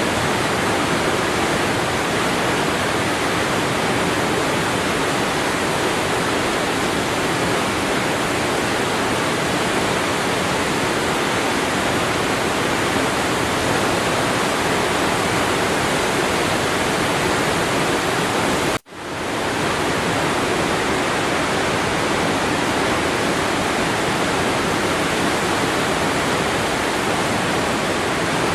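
Waterfall: steady rushing of falling water. About two-thirds of the way through, the sound cuts out for an instant and fades back in, like a loop join.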